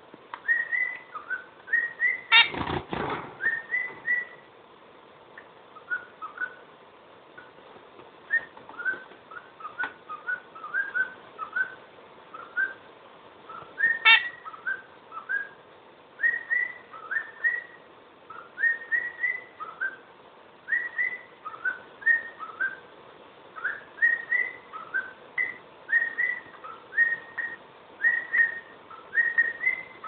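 A pet bird whistling a long run of short rising notes, repeated over and over in quick phrases. A loud bump comes about two and a half seconds in, and a single click near the middle.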